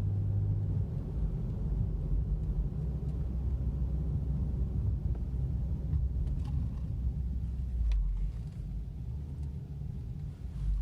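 Subaru Outback 3.6R's flat-six engine and exhaust running through 2017 WRX OEM mufflers, heard from inside the cabin while driving: a steady, deep, throaty tone. A strong low note in it drops away about a second in.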